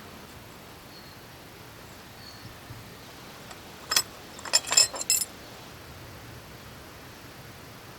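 A few sharp metallic clinks with a brief ring: one about four seconds in, then a quick run of several more over the next second, over a faint steady background hiss.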